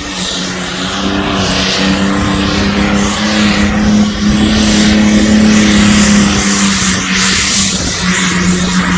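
Heavily modified pulling tractor's engine at full power, pulling the weight sledge down the track. The engine note holds steady and grows louder over the first few seconds.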